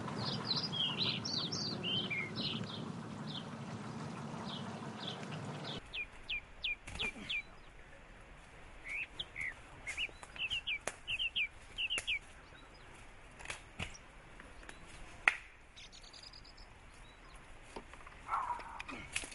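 Small birds chirping in quick, repeated short calls. For the first several seconds they sit over a steady low hum, which cuts off suddenly. A few sharp clicks follow later, the loudest about two-thirds of the way through.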